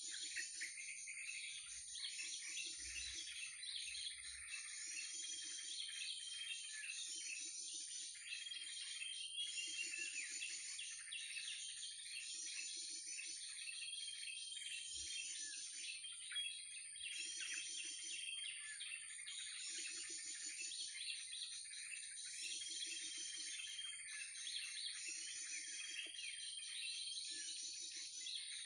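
Looped bird-call lure recording of krucukan calls mixed with other birdsong, played as bait for trapping. The same chirping phrase repeats every couple of seconds over a steady high whine.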